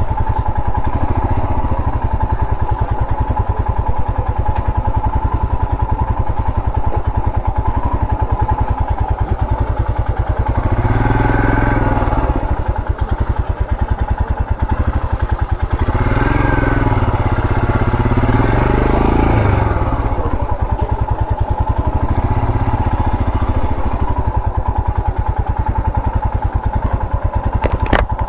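Royal Enfield Himalayan's 411 cc single-cylinder engine running at low speed while riding, with a steady thump. The revs rise and fall about ten seconds in, and again for a few seconds around the middle of the stretch.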